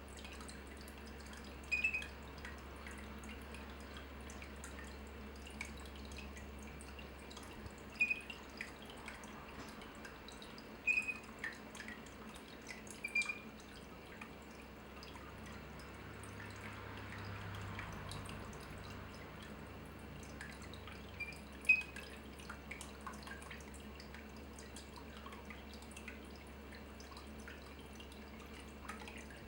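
Water dripping: single drops plink into water every few seconds at irregular intervals, each with a short ringing tail, over a faint steady low hum.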